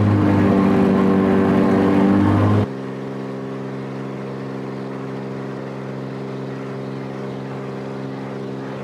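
Velocity aircraft's piston engine and pusher propeller at takeoff power, heard from inside the cabin. About three seconds in the sound drops suddenly to a quieter, steady engine drone, as in the climb.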